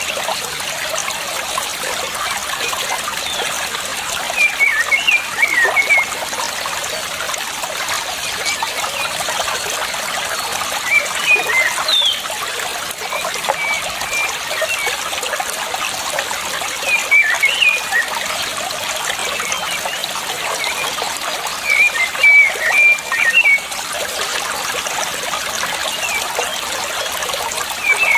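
Water trickling steadily, with short bursts of high chirping bird calls every few seconds.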